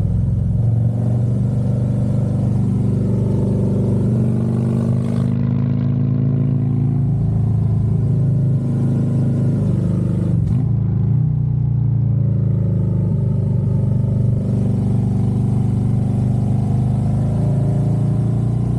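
Harley-Davidson Road Glide V-twin engine running under way, its low exhaust note rising and falling with the throttle. There is a brief dip and change in pitch about ten seconds in.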